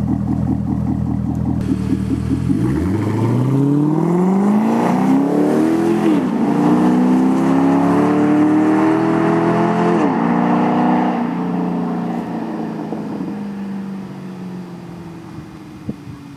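Corvette V8 through a Billy Boat Bullet exhaust pulling away from low revs, the engine note rising through the gears with two upshifts, about 6 and 10 seconds in. After that the note drops and fades away.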